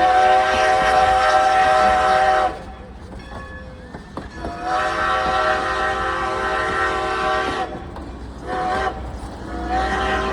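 Steam whistle of Strasburg Rail Road No. 90, a 2-10-0 steam locomotive, sounding a chord in four blasts: long, long, short, long. This is the standard grade-crossing signal, sounded as the train approaches a road crossing. A low rumble of the moving train runs underneath.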